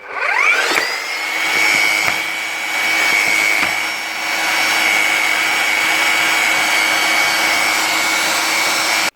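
Bosch 11318EVS demolition hammer's electric motor spinning up and running steadily with a high whine, with no hammering blows: the hammer mechanism isn't striking, which the owner puts down to the hammer's O-ring being jammed at the back and moulded into the tool holder's holes.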